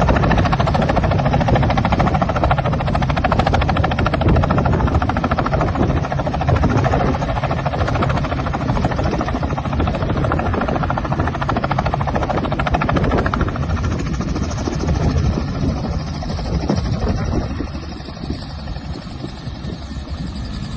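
Robinson R44 helicopter running steadily, its two-bladed main rotor making a fast, even beat over the engine noise, getting a little quieter near the end.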